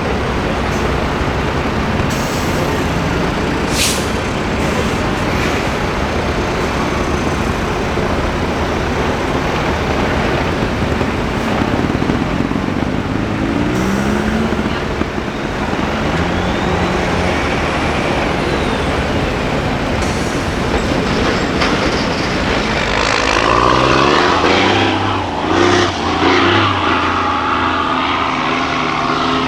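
Diesel engine of a 6x6 MAN trial truck working hard off-road, revving up and down, loudest near the end. A brief sharp hiss about four seconds in.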